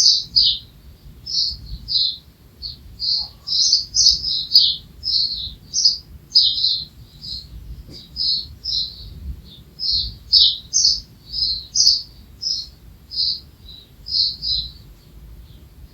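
Small songbirds chirping steadily, a little under two short high notes a second, many of them sliding downward, with no pause.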